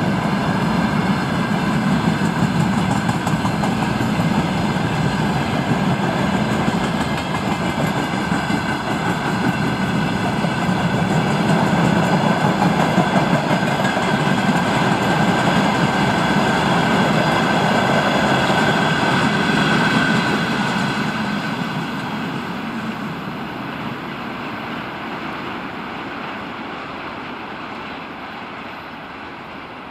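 Freight train of open-top gondola wagons rolling past on the rails: a steady rumble of wheels with a high ringing tone over it. It fades away over the last third as the train's end draws off.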